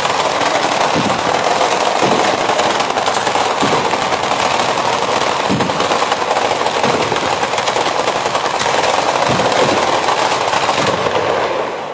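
Batteria alla bolognese ground fireworks: a dense, continuous rattle of firecrackers, with heavier bangs standing out every second or two. It thins out near the end.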